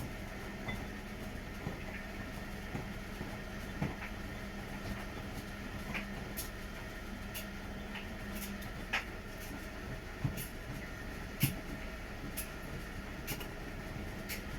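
Washing machine running a wash cycle: a steady motor hum with irregular light clicks and knocks, roughly one a second, as the drum turns with laundry in it.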